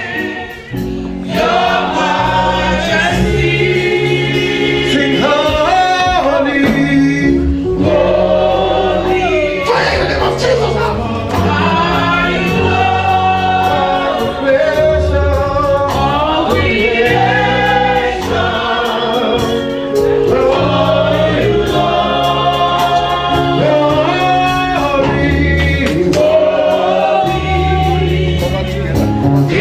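Gospel music: a choir singing over a bass line that steps from note to note.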